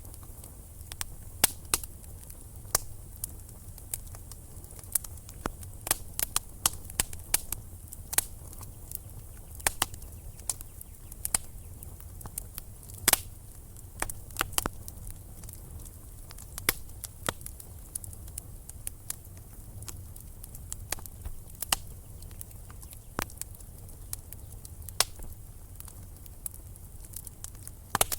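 Wood fire burning in a fireplace, crackling and popping: sharp irregular pops, several a second, over a low steady rumble of the flames.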